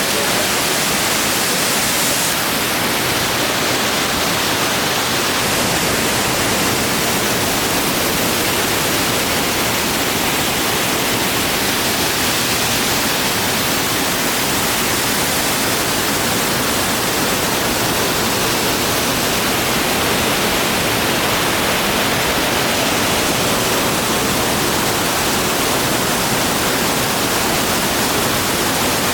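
Waterfall pouring with a steady, loud rush of falling water; the tone shifts slightly about two seconds in.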